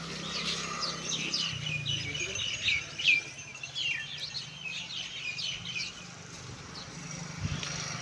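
Small birds chirping busily, a rapid string of short downward-sliding chirps, over a low steady hum.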